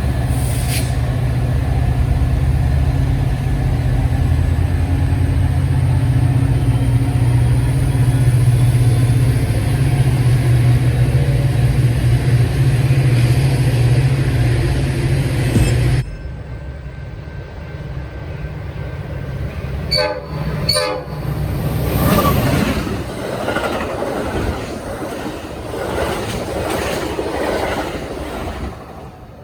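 Trains on the line: a diesel locomotive's engine drones loudly and steadily for about half the time, then cuts off abruptly. After that a train rolls past with rushing wheel-on-rail noise and two short sharp sounds close together.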